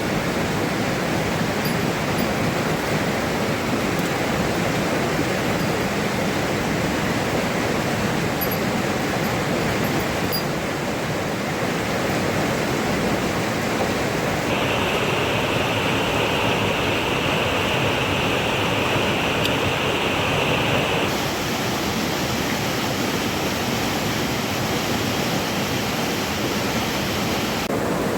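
Steady rushing noise of water. A brighter hiss joins for about six seconds in the middle and cuts off abruptly.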